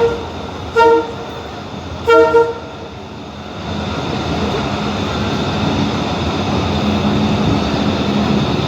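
Train horn giving three short toots, the last slightly longer, then the rumble of the moving train growing louder.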